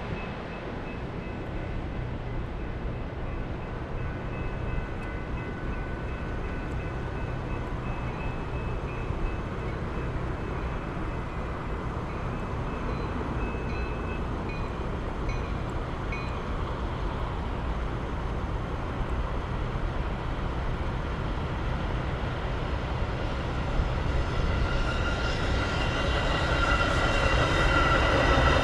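Metra commuter train approaching through falling snow: a steady low rumble that grows louder over the last few seconds as the train draws near, with high steady tones coming up with it.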